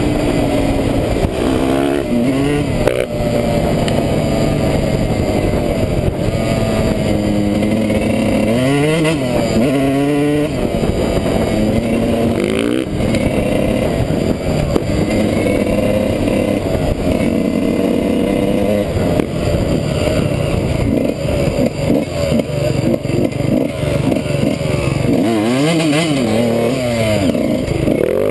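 Dirt bike engine running hard through a woodland trail, its pitch climbing and falling repeatedly as the rider revs, shifts and rolls off the throttle.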